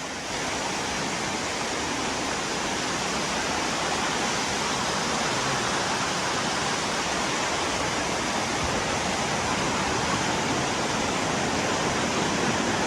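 Waterfall rushing: a steady, unbroken roar of water pouring over the rock tiers of Dunn's River Falls.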